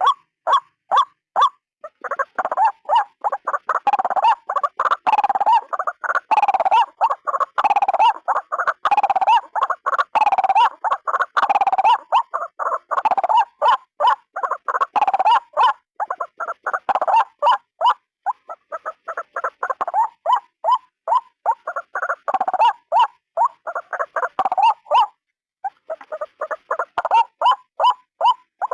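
White-breasted waterhen (ruak-ruak) giving its repeated croaking calls, a few every second in an unbroken run, with a short break near the end.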